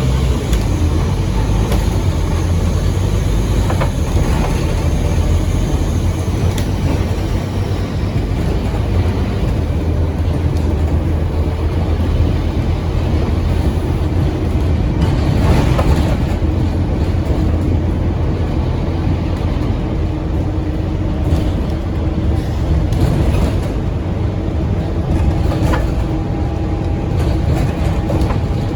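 Scania N230UD OmniCity double-decker bus's diesel engine running under way, heard from on board, with its loud turbocharger. A faint high whistle fades out after about seven seconds.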